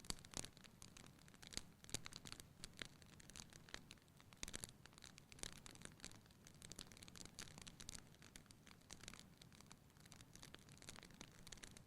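Faint crackling of a wood fire in a fireplace: irregular small snaps and pops over a soft, low rush of flame.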